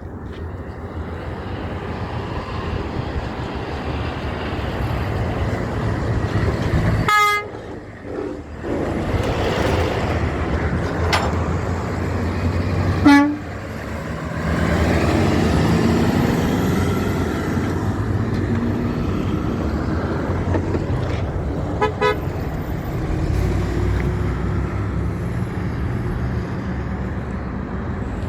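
Heavy trucks running past with a steady engine and road rumble, and several short horn toots; the loudest comes about halfway through.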